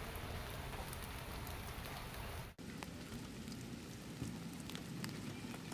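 Heavy rain falling steadily: an even hiss with scattered drop ticks, cut off for an instant a little under halfway through.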